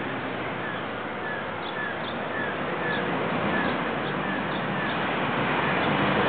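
A small bird repeating a short falling chirp about twice a second, over a steady background rush of noise that swells near the end.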